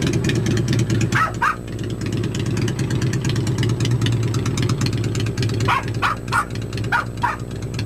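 1995 Kawasaki VN800 V-twin with drag pipes idling steadily. Over it come several short, sharp, high calls: two about a second in and a quick run of five near the end.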